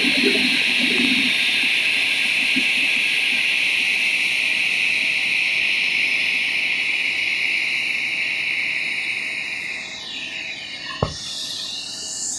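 Jet aircraft engine running with a steady high whine and rushing noise, which fades about ten seconds in with a falling whine. A single short thump follows about a second later.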